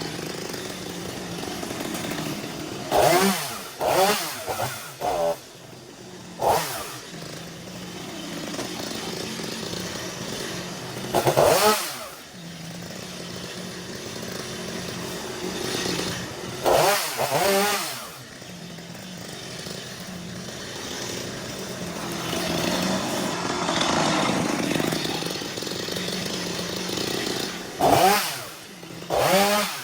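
Small two-stroke engine of a handheld power tool running, revved hard in short bursts several times with the pitch climbing and dropping back, and running at a steady lower speed between bursts.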